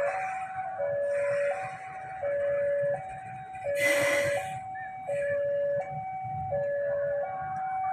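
Railway level-crossing warning alarm sounding continuously, a two-tone signal alternating steadily between a lower and a higher tone, each held for under a second, warning that a train is approaching. A short hissing burst cuts through about four seconds in, over a low background rumble.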